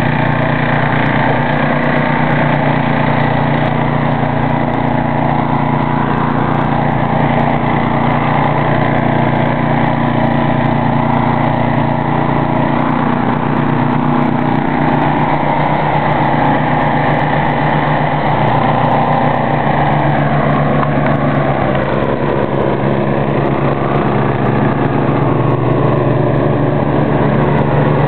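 Ariens snow thrower's engine running steadily at a constant speed.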